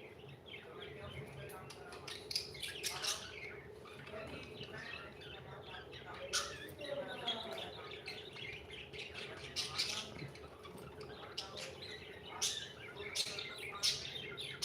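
Small pet parrot chirping and chattering in short, sharp calls, with a run of warbling, speech-like chatter a little past the middle.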